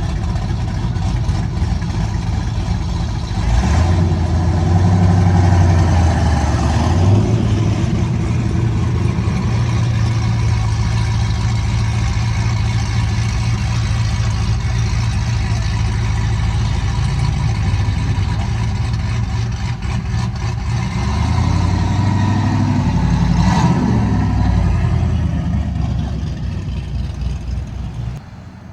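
A motor vehicle engine running, its pitch stepping up and down about three seconds in and again past the twenty-second mark, with a steady stretch between; it drops away just before the end.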